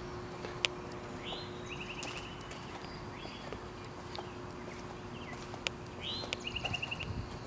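A bird singing the same phrase twice, a rising whistle followed by a quick trill, over a steady hum and a few faint clicks.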